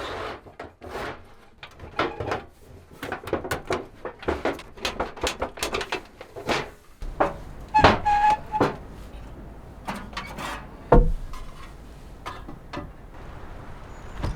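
A series of wooden knocks and clatters, irregular and close together, with a short squeaky creak about eight seconds in and a sharper knock about eleven seconds in.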